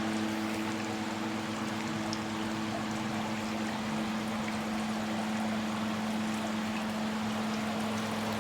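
Homemade air cooler built from an old washing machine running: a steady hum from its wall-fan motor over a wash of moving air and water trickling, circulated by its small aquarium-type pump.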